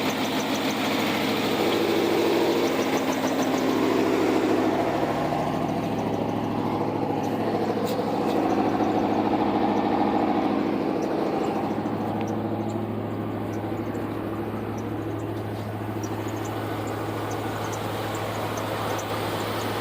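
A V8 truck engine idling steadily, its low drone growing stronger about halfway through.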